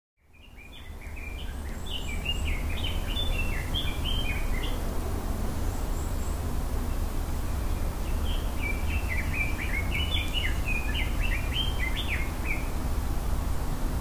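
A small bird singing quick, chattering bursts of chirpy notes in two bouts of about four seconds each, over a steady low rumble. The sound fades in at the start.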